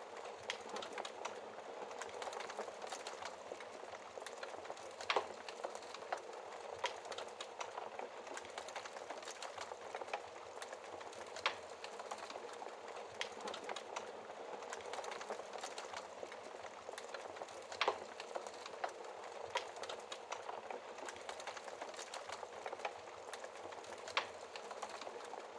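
Wood fire burning steadily with a continuous crackle and frequent small snaps, several louder pops spread through it.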